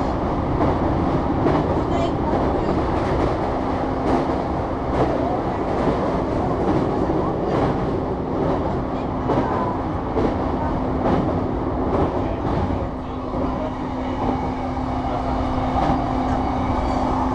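JR E233-3000 series electric commuter train running at speed, heard from inside the passenger car: steady wheel-and-rail rumble with scattered clicks from the rails, and a steady hum that comes in a few seconds in. For most of it the train is crossing a steel truss bridge.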